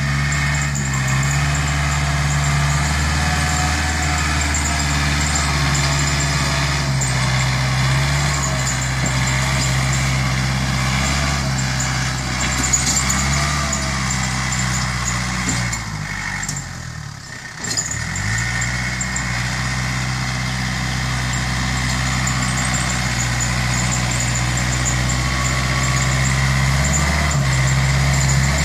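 Yanmar EF494T tractor's diesel engine running steadily, its revs sagging briefly about two-thirds of the way through and then climbing back.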